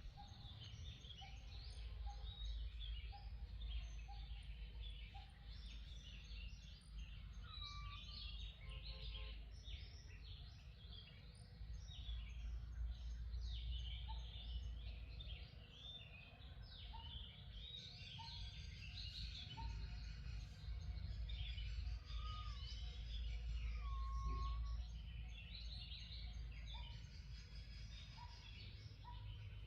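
Outdoor ambience of many small birds chirping, with a few short whistled notes, over a steady low rumble.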